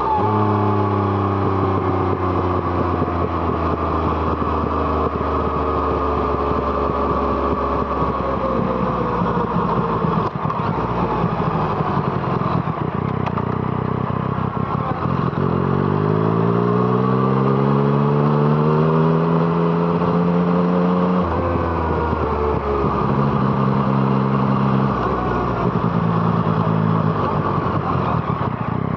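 Yamaha MT-09's three-cylinder engine through an Arrow Thunder exhaust under way on the road. The engine note eases down through the first half, climbs in a long rise from about halfway, drops sharply with a gear change, holds steady, then rises again near the end.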